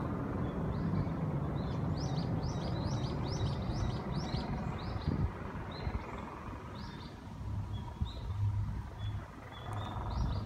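Small birds chirping in quick repeated short notes, thickest a couple of seconds in, over a low rumble that dies away after about five seconds.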